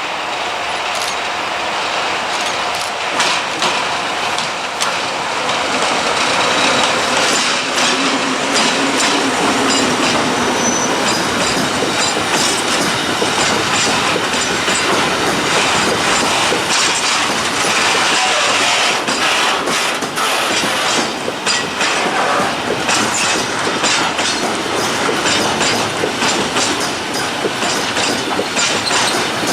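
A freight train of empty self-discharging hopper wagons, hauled by a T448p diesel locomotive, rolling past. Its wheels clatter over the rail joints with steady clicks and knocks, and there is some wheel squeal.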